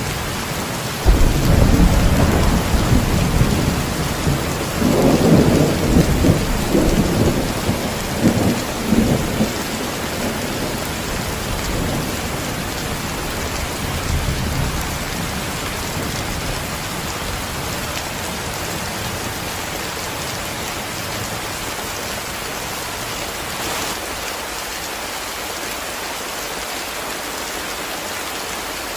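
Steady heavy rain hiss. About a second in, thunder breaks in suddenly and rolls in several swells for around ten seconds before dying away, leaving only the rain.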